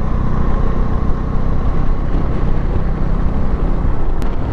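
Motorcycle riding steadily at road speed: a constant engine drone and wind rush on the on-bike microphone.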